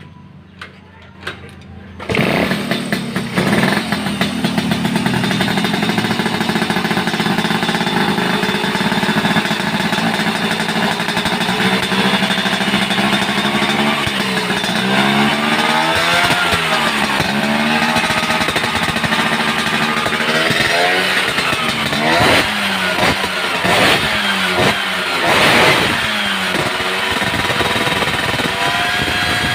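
Two-stroke Vespa scooter with a KIA aftermarket exhaust on a standard-ported cylinder. The engine starts about two seconds in and idles steadily, then is revved up and down repeatedly, with short sharp throttle blips near the end.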